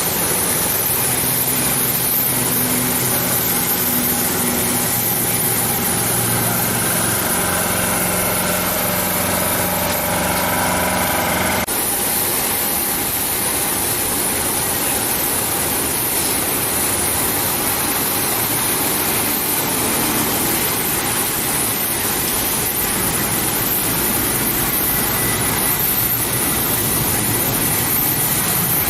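Turboprop engines of an ATR 72-500 running steadily, with several steady droning tones. About twelve seconds in, this cuts abruptly to the even rushing noise of a Boeing 737-800's jet engines running at low power.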